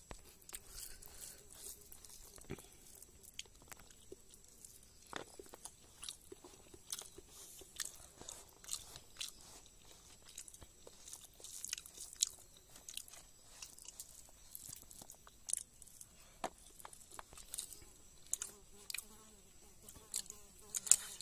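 A person chewing and biting food close to the microphone: irregular crunchy, wet mouth clicks, several a second at times.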